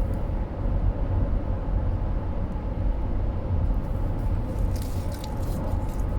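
Steady low road and engine rumble inside a moving car's cabin, with a few brief faint crackles about five seconds in.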